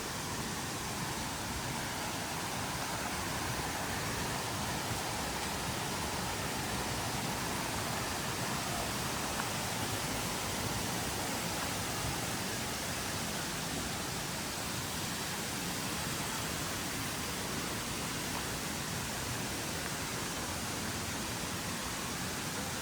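Steady, even rush of falling water, as from a waterfall, holding the same level throughout.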